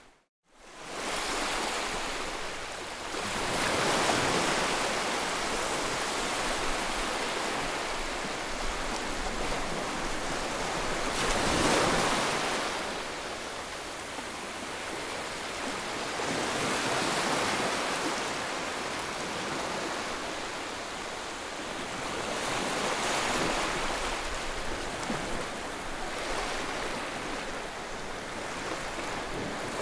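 Ocean waves breaking and washing in, the surf swelling and easing roughly every six seconds. The sound cuts out for about half a second at the very beginning.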